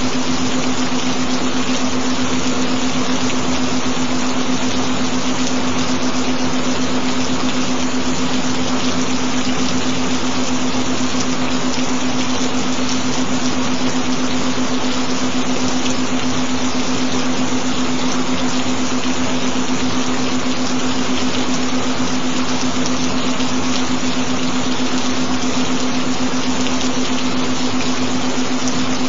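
Recorded gentle rain hissing steadily, with a constant humming tone held underneath it, the carrier tone of a binaural-beat track.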